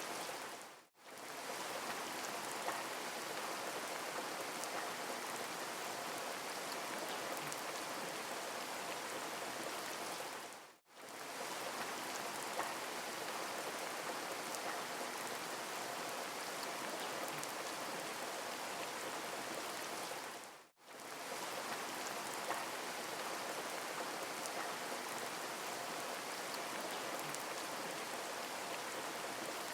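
Steady rain, an even hiss of falling rain, that fades out and straight back in about every ten seconds.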